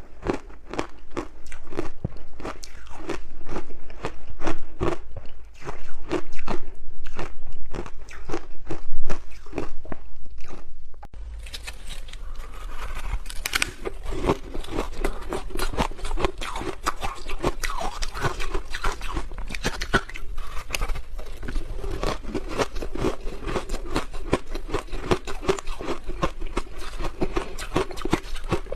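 Close-up crunching and chewing of hard ice, a dense run of quick crackling bites. The crunching gets softer about eleven seconds in.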